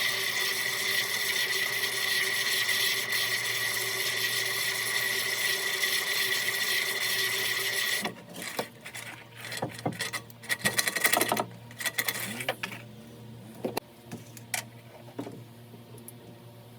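A small motor-driven tool runs steadily with a high whine, then cuts off suddenly about halfway through, followed by scattered clicks and knocks as things are handled.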